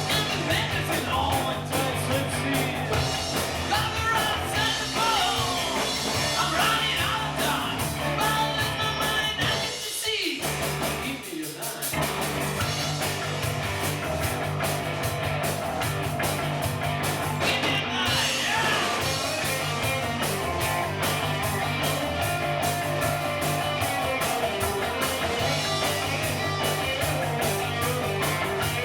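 Rock band playing: a steady drum beat, bass and electric guitar, with singing. The bass and low end drop out briefly about a third of the way in, then the groove comes back in full.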